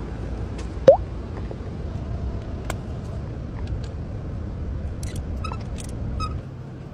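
Car engine running with a steady low rumble that drops away near the end. A single short, sharp rising squeak comes about a second in, and there are light clicks.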